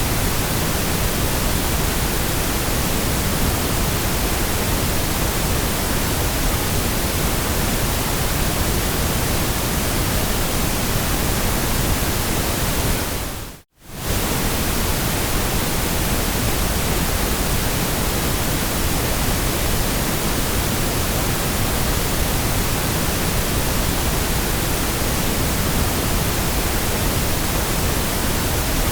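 Steady synthetic white-noise hiss, an even rushing spread over all pitches with no rhythm or tone. About halfway through it fades out for a moment and comes straight back.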